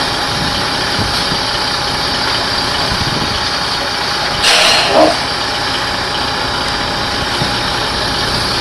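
A vehicle engine idling steadily, with a short louder hiss about four and a half seconds in.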